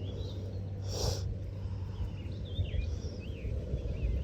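Small birds chirping in short, bending calls over a steady low rumble, with a brief rustle about a second in.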